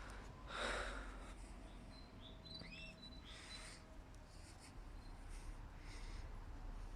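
Faint, brief chirps of small caged birds, canaries and budgerigars, a few times around the middle, after a soft rustle near the start.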